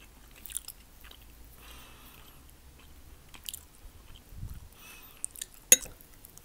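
A person chewing soft syrniki (cottage-cheese pancakes) close to the microphone, with small wet mouth clicks and one sharper click about five and a half seconds in.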